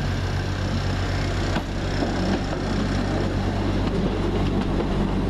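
Class 20 diesel locomotive coming through the station, its engine running loudly with a steady low drone, making a bit of a noise.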